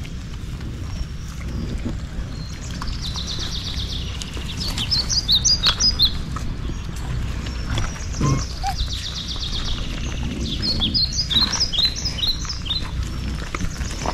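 Birds chirping in clusters of quick high notes, with rapid trills between them, over a steady low rumble.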